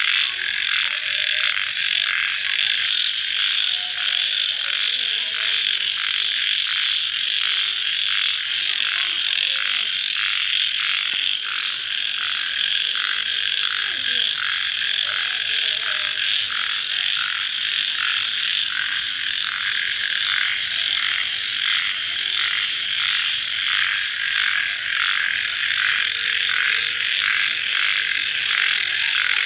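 Night chorus of crickets chirping just after rain: many insects calling together in a steady, high, pulsing drone.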